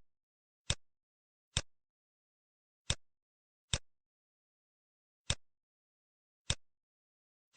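Computer mouse clicking, six single sharp clicks at uneven intervals of about one to one and a half seconds, with dead silence between them.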